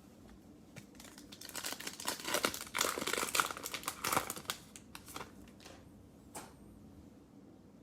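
A plastic trading-card pack wrapper being torn open and crinkled: a dense crackle for about three seconds, then a few light clicks.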